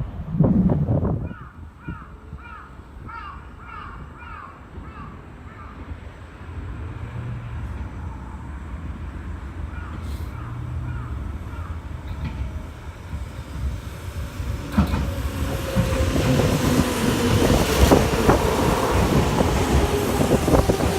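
Crows cawing in a quick run of short calls, with a few more caws later. Then an electric train approaches and grows louder, its motor whine slowly falling in pitch.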